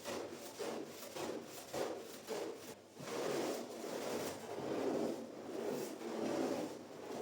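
Rhythmic rubbing and scraping strokes of a cleaning tool worked over a wet shaggy rug, about two short strokes a second at first, then slower, longer strokes from about three seconds in.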